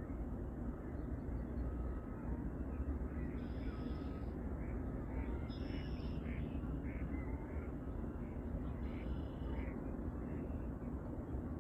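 Birds calling outdoors: a few short, clustered calls over a steady low rumble of background noise.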